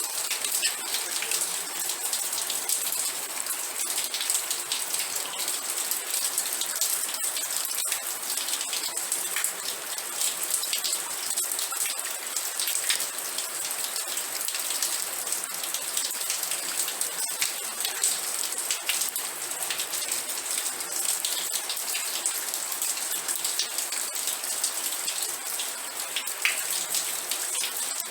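Steady rain falling on a surface, a dense patter of fine drops with a bright hiss, no rises or breaks.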